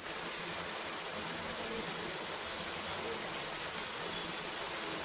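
Chicken pieces and spice masala frying in oil in a nonstick pan, a steady sizzling hiss.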